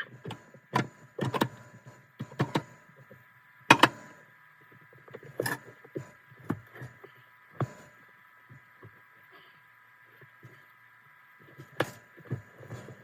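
Irregular metallic clinks and knocks of tools and parts being handled, about a dozen sharp hits at uneven gaps, over a faint steady whine.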